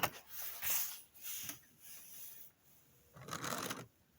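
Handling noises from a small HO scale model locomotive being turned over in the hands: a sharp click at the start, then four short rustling scrapes.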